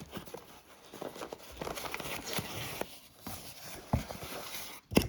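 A box and its packaging being handled and opened: rustling and scraping with many light knocks, and a sharper knock near the end.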